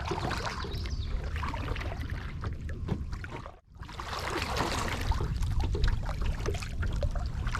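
Water dripping and lapping around a kayak, a stream of small splashy ticks over a steady low rumble. The sound cuts out almost completely for a moment about three and a half seconds in.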